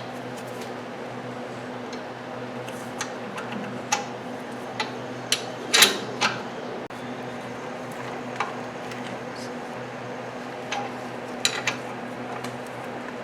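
Hand wrenches clinking against each other and the steel stud and nuts as a stud is turned in using the double-nut method: scattered metallic clinks, the loudest about six seconds in, over a steady low hum.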